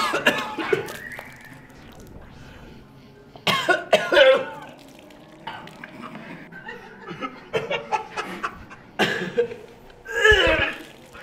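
A man retching and vomiting up milk in loud heaving bursts: one at the start, a longer one about three and a half seconds in, and another near the end, with smaller coughing sounds between.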